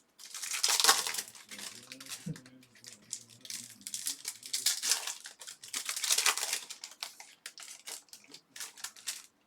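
Foil and plastic trading card pack wrappers being torn open and crinkled by hand, in repeated crackling bursts.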